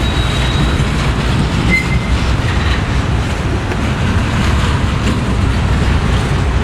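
Train rolling past at close range: a steady, loud rumble of wheels on rail, with a short high-pitched wheel squeal near the start.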